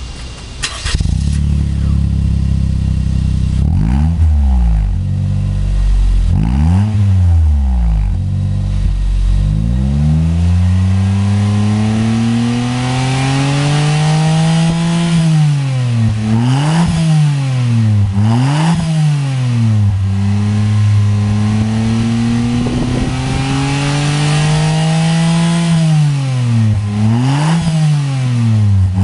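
Daihatsu Move (LA150S) 660 cc three-cylinder engine running through a Kakimoto GT box 06&S aftermarket muffler. It idles, is blipped twice, then is revved up and held high, with several quick drops and rises in revs.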